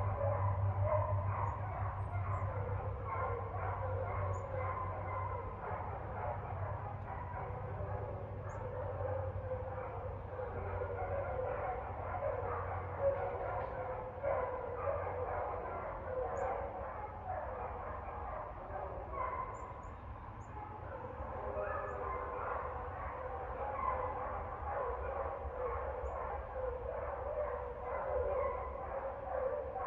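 Dogs barking on and on without a break, with a steady low hum underneath that is strongest in the first few seconds.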